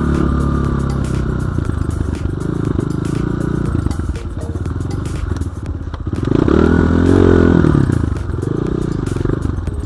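BSE J1 enduro motorcycle engine running under throttle over rough ground, with rattling clicks. About six seconds in it revs up hard, holds for a couple of seconds, then drops back.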